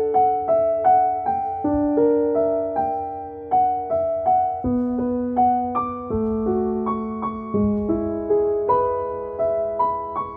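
Calm background piano music: single notes picked out slowly, two or three a second, each ringing and fading over held low notes that change every couple of seconds.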